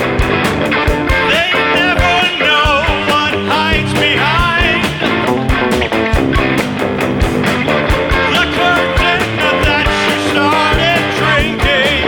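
Rock band playing: drums keeping a steady beat under electric guitar and bass, with a wavering lead line over the top.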